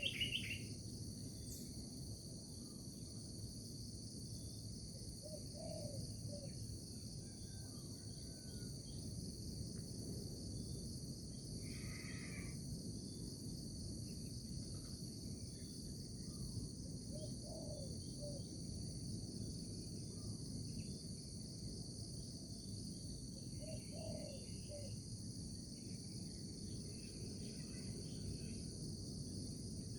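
Outdoor nature ambience: insects, likely crickets, chirping in a steady high-pitched chorus over a low, even background hiss, with a few short bird calls scattered through, one a little louder about twelve seconds in.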